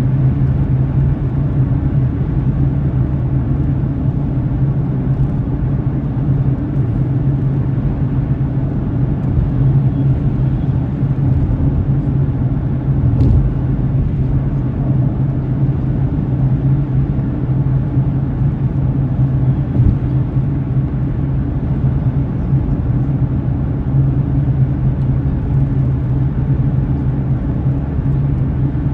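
Steady low drone of a car's engine and tyres on the road, heard from inside the cabin while driving, with a faint tick about thirteen seconds in.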